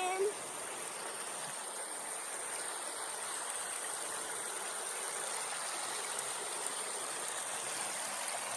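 Creek water running over rocks: a steady, even rush of flowing water.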